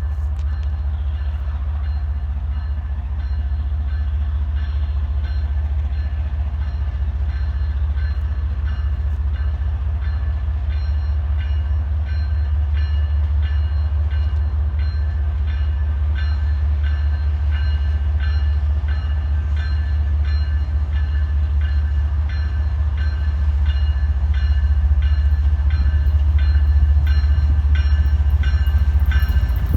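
Train rolling past: a steady low rumble with a regular clicking of wheels over rail joints that grows plainer partway through, getting slowly louder.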